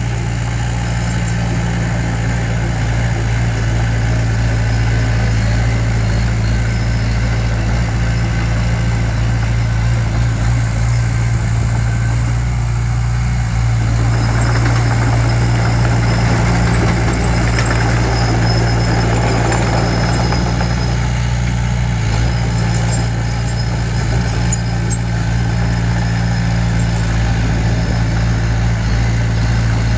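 Diesel engine of a heavy construction machine running steadily at a low, even speed, with a louder rushing noise swelling for several seconds midway.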